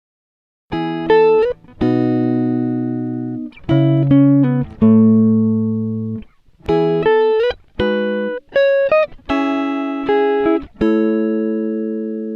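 Music: a guitar playing a slow phrase of chords and single notes, each struck sharply and left to ring out and fade.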